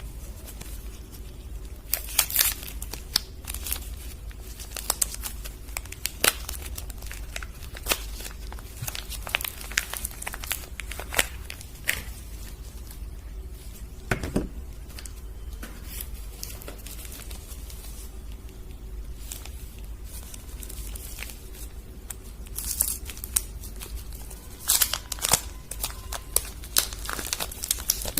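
Soap bars being unpacked: the wrapping crinkles and tears in irregular bursts of crackling, busiest near the start and again toward the end.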